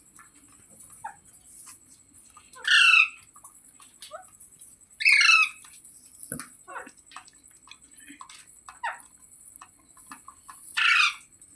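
A parrot calling: three loud, harsh calls of about half a second each, about two and a half, five and eleven seconds in, with soft chirps and clicks between them.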